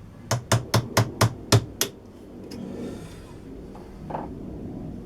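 A hammer tapping seven times in quick succession, about four taps a second, followed by a faint click and a single softer knock near the end.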